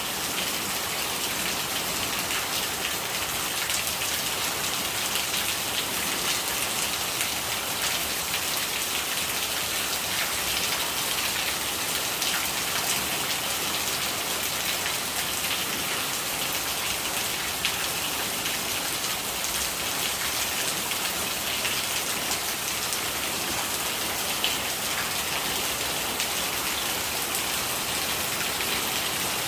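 Steady rain falling on a surface: an even hiss full of small drop ticks.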